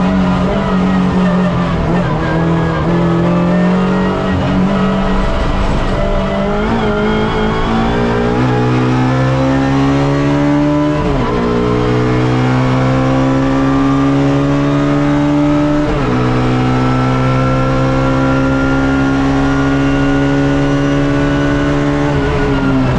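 Suzuki Swift race car's engine heard onboard, pulling hard with its pitch climbing steadily. It shifts up twice, with sudden drops in pitch about 11 and 16 seconds in. Near the end the revs fall away as the driver lifts off.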